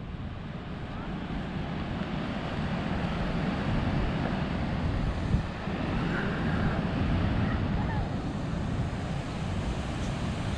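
Ocean surf washing onto a sandy beach, a steady rushing noise, with wind buffeting the microphone. A single brief knock is heard about five seconds in.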